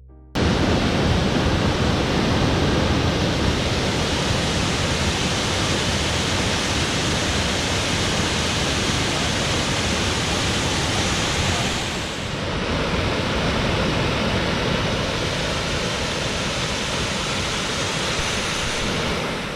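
Triberg's multi-tiered waterfall rushing loudly: a dense, steady roar of falling water that starts suddenly and dips briefly about twelve seconds in.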